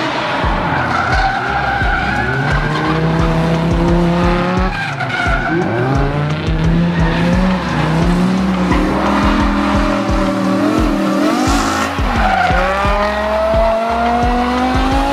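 Engine of an engine-swapped Subaru Impreza revving up and down over and over while the car drifts, with tyre squeal and skidding. Music with a steady beat plays underneath.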